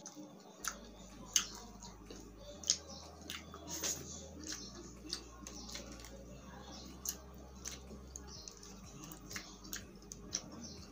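Close-up chewing of grilled fish, with irregular wet mouth clicks and smacks.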